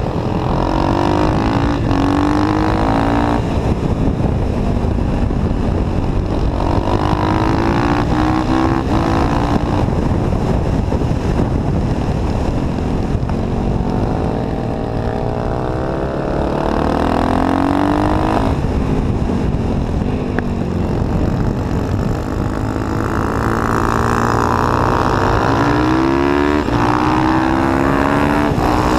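Onboard sound of a motorcycle engine accelerating and backing off, its pitch climbing in repeated sweeps, about four times, as it drives out of the corners, over a dense rush of wind noise.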